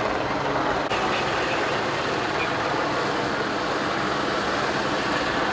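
Helicopter running steadily, a continuous rotor and engine noise.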